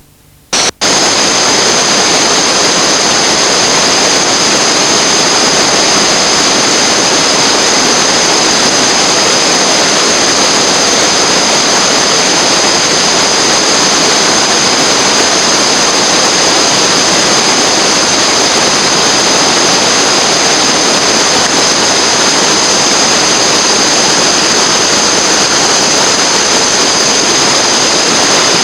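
Loud, steady roar of rushing whitewater, starting abruptly about a second in and holding unchanged.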